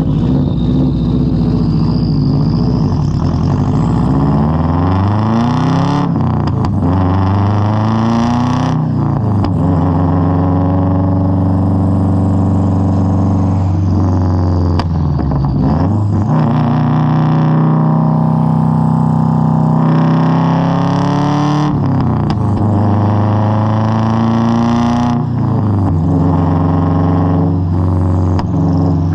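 2003 Subaru WRX's turbocharged flat-four through a Tomei straight-pipe exhaust, picked up by an external mic, under way on the road. The revs climb and then drop sharply several times, as the car is driven up through the gears.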